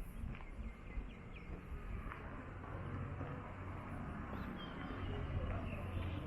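Outdoor ambience: a low steady rumble that swells a little about halfway through, with a few faint bird chirps.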